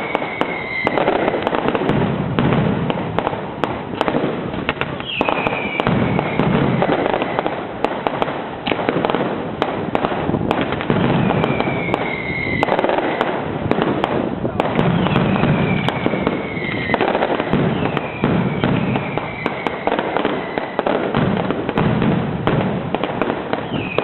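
Fireworks going off without a break: dense crackling and sharp bangs with low booms. A falling whistle sounds every four to six seconds.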